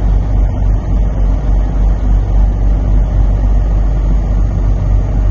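Blizzard wind buffeting a truck's cab, heard from inside as a loud, low, uneven rumble that surges and eases, over a steady low hum.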